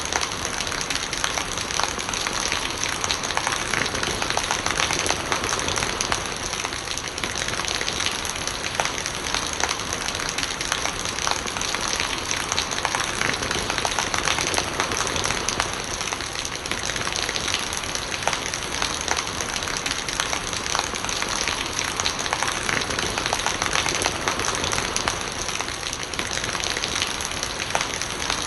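Steady heavy rain with rainwater gurgling. Countless sharp drop ticks sound over an even hiss, without let-up.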